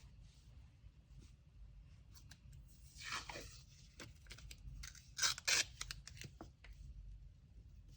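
Packing material torn by hand, twice: once about three seconds in and again, louder, just past five seconds, with light handling clicks and rustles between.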